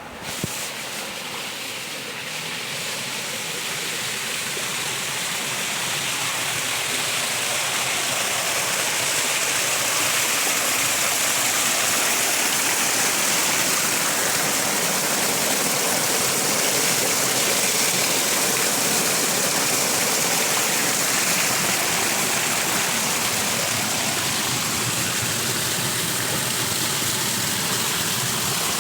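Steady rush of flowing water, as from a stream or small waterfall, fading in over the first several seconds and then holding even. There is one brief click about half a second in.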